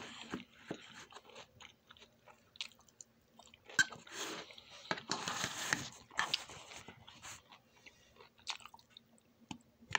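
A person chewing and biting food close to the microphone: irregular wet clicks and smacks, with louder crunchy chewing about four to six seconds in.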